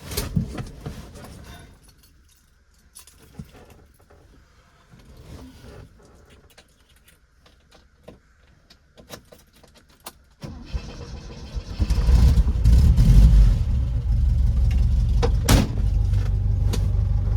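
Keys jangling and scattered clicks and rattles, then about ten seconds in a starter cranks the Ford Taunus 17M's 1.7-litre V4, which catches after a second or so and keeps running steadily at idle.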